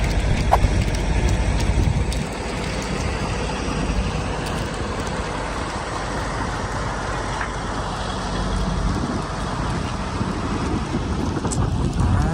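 Steady drone of a Class A diesel-pusher motorhome on the highway: road and wind noise with a low engine hum, a little louder for the first couple of seconds.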